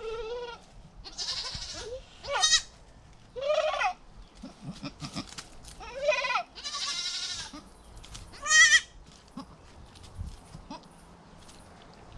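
Goats bleating: a series of about seven short, high, wavering bleats, some sliding up in pitch, that stop after about nine seconds.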